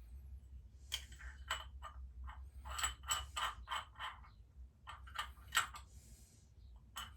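Small metal carburettor parts clinking and tapping against each other and a hard surface as they are handled during a lawnmower carburettor clean-up: a quick, irregular run of sharp metallic clicks, busiest between about one and six seconds in.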